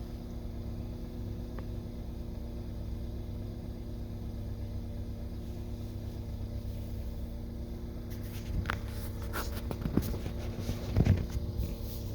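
2013 Ford Fusion's engine idling with a steady hum. From about eight seconds in there is a cluster of clicks and knocks, the loudest near the end.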